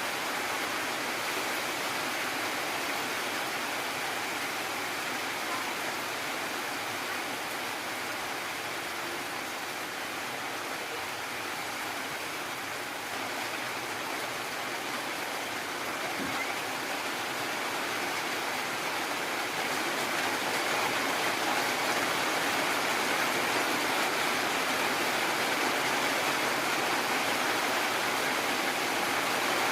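Heavy rain falling steadily as a dense, even hiss, growing a little louder about two-thirds of the way through.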